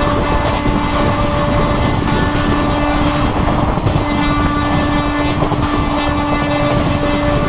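Indian intercity express train running at speed: a loud, steady rumble with a long steady tone held throughout.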